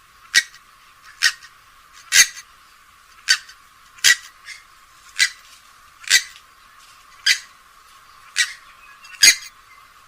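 Short, sharp calls of a rail-family waterbird of the swamphen and moorhen kind, repeated evenly about once a second, ten in all.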